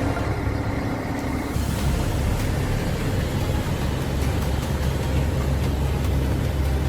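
A large engine running steadily with a low hum, its sound changing about one and a half seconds in.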